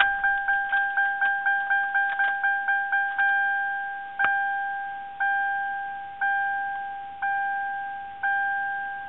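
1995 Mercury Grand Marquis's dashboard warning chime, with the engine shut off. A two-tone electronic ding repeats fast, about four times a second, for about three seconds, then slows to about once a second.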